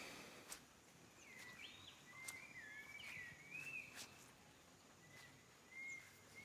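Faint whistled bird calls in rainforest: a series of short sliding notes, some rising and some falling, with a few faint clicks between them.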